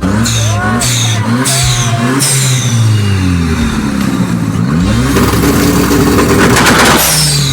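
Car engine being revved in a series of quick blips, its pitch sweeping up and falling back each time, with a longer, louder rev near the end.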